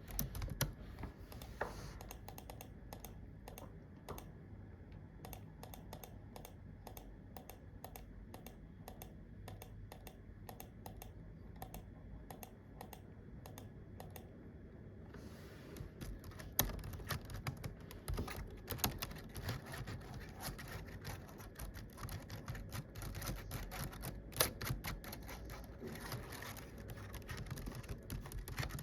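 Typing on a computer keyboard: a steady patter of key taps. The tapping grows louder and busier about halfway through.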